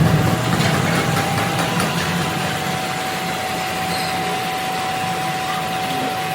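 Factory machinery running steadily, a dense noise with a constant whine held over it.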